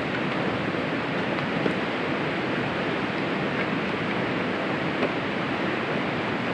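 Steady rushing noise of wind and rain, with a few faint ticks.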